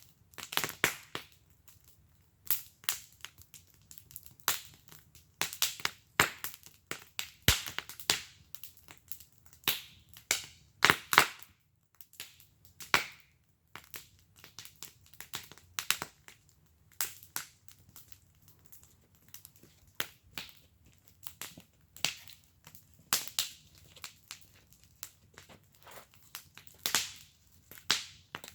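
Wood fire burning in a fire pit, crackling with irregular sharp pops and snaps, some in quick clusters, over a faint low hum.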